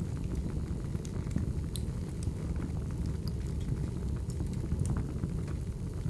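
Wood fire burning: a steady low rumble of flames with scattered sharp crackles and pops from the burning logs.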